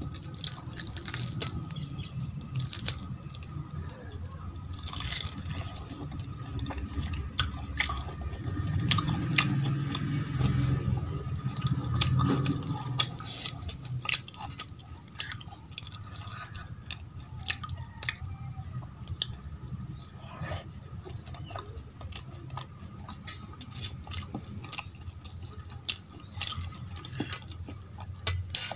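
A person chewing and eating potato curry and fried kachori with their hands, with many small wet smacks and clicks and the squish of fingers working through the curry.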